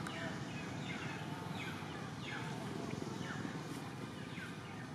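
A bird calling: a series of short, high, falling whistled notes, repeated every second or so, over a steady low background rumble.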